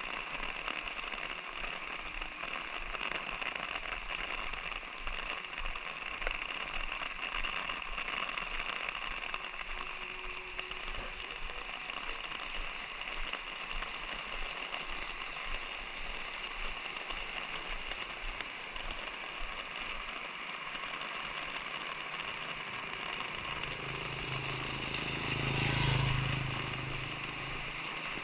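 Light rain pattering steadily, with fine crackling drops. About three-quarters of the way through, a vehicle passes close by: its sound swells, peaks and falls in pitch as it goes away.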